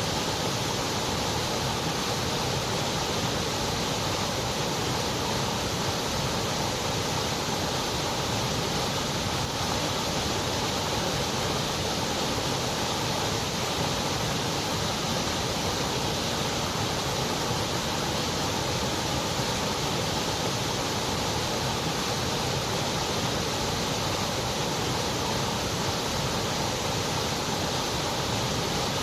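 Steady white noise: an even, unchanging hiss with no pauses or changes.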